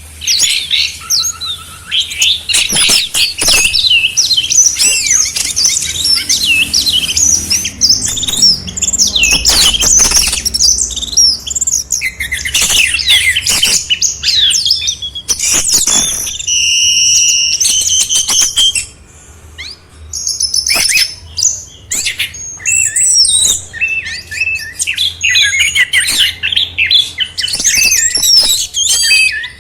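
Dense, continuous birdsong from a masteran tutoring track that layers the songs of three bird species: rapid high chirps, trills and whistles overlapping one another, with a brief lull about two-thirds of the way through.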